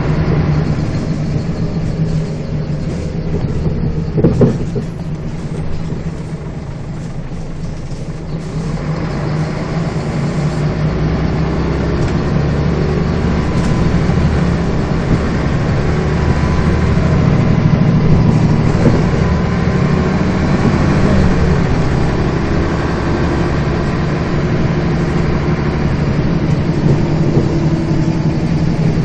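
Scania bus engine running as the bus drives, heard from inside the bus, with a loud knock about four seconds in. The engine eases off briefly, then pulls again and runs steadily.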